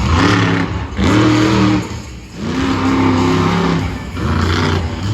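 Monster truck engine revving hard in about four bursts, each one climbing and then falling in pitch as the throttle is worked.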